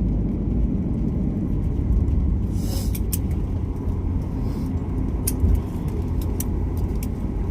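Steady low rumble inside a passenger airliner's cabin during landing. A short rushing hiss comes a few seconds in, followed by light rattling clicks.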